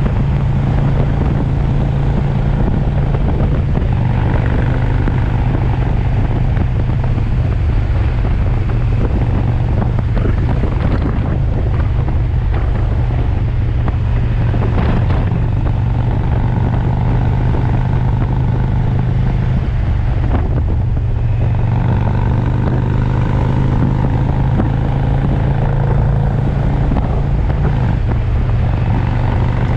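V-twin cruiser motorcycle engine running at a steady cruising speed, with wind rushing over the microphone.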